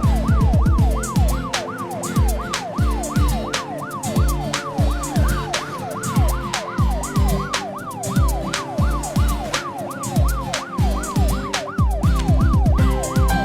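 A fast yelping emergency-vehicle siren, its pitch sweeping up and down about three times a second, over background music with a steady drum beat.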